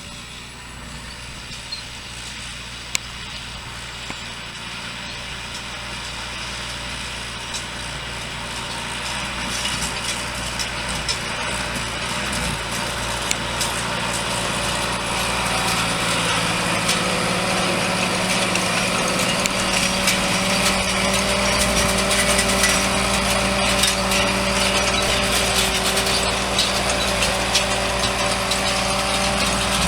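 Turbocharged Farmall H tractor's four-cylinder engine running steadily under load, growing steadily louder as the tractor comes closer.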